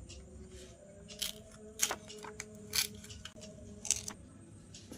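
Scissors cutting paper in four short snips.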